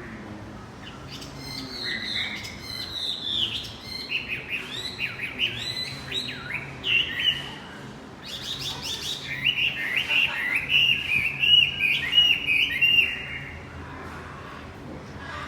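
Male wambi songbird singing: a rapid, varied run of high chirps and warbled notes in quick series, with a short break about halfway, trailing off near the end.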